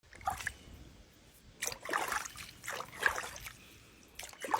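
Water splashing and sloshing in a tub as a jaguar moves in it, in four short bursts a second or so apart.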